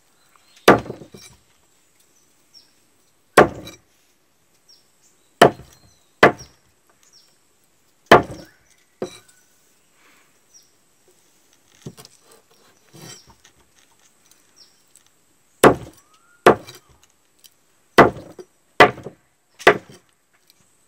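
Chopping: about a dozen sharp strikes at uneven intervals, several in quick pairs, with a faster run of blows near the end.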